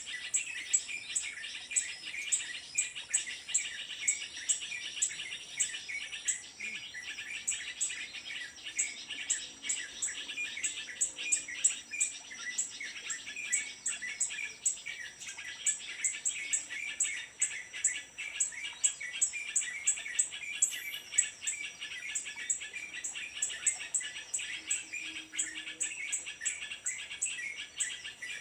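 Small birds chirping steadily and densely, over a continuous run of sharp, high, evenly spaced ticks.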